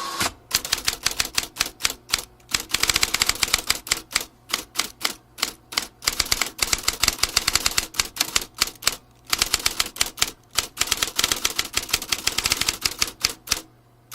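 Vintage typewriter being typed on quickly: a fast run of sharp key strikes, broken by a couple of short pauses.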